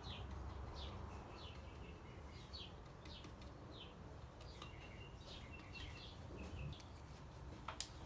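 Small birds chirping in the background: short, high, downward chirps, one or two a second, with a few brief even-pitched notes about halfway through. A light tap comes just before the end.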